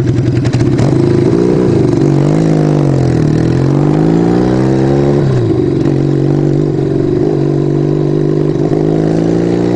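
Kawasaki 440 motorcycle's parallel-twin engine running under way, its pitch rising and falling with the throttle. About five seconds in the pitch drops sharply, then climbs slowly and steadily.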